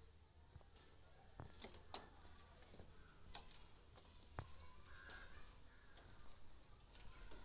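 Faint bird calls with scattered small clicks and taps, the sharpest about two seconds in, over near silence.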